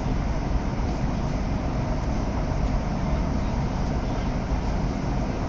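CRH6F electric multiple unit running: a steady rumbling ride noise, heaviest in the low end, with no distinct knocks or tones.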